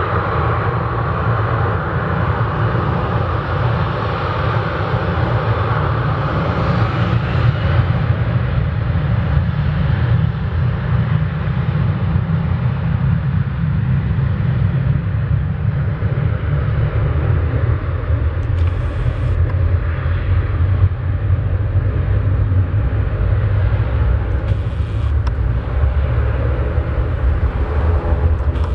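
Boeing 737-800's CFM56 jet engines at takeoff power: a loud, steady rumble, with a higher whine that fades after about eight seconds as the aircraft moves away.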